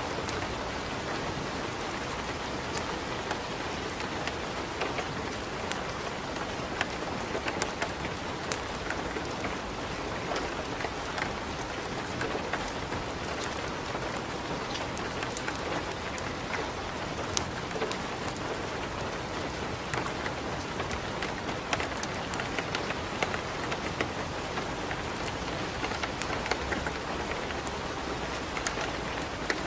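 Steady rain hiss mixed with a wood fire in a fireplace, with frequent short sharp crackles and ticks scattered throughout.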